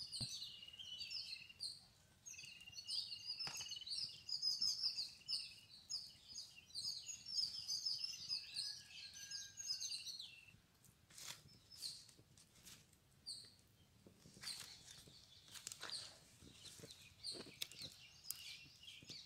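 Birds chirping, a dense run of short high chirps that thins out about halfway through. A few light clicks and knocks in the second half.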